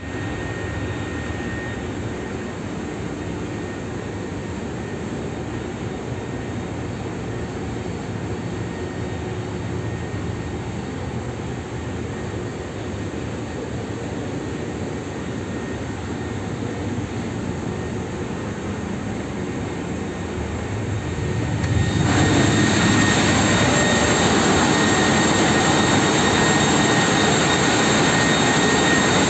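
Ship's engine-room machinery running with a steady, dense drone and a few faint steady whines. After about twenty seconds it steps up sharply to a louder, brighter level and stays there.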